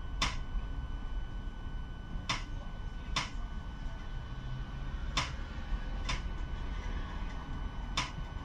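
Inside a moving 71-628-02 tram: a steady low rumble and a thin electrical whine, with six sharp clicks at uneven intervals, several in pairs about a second apart.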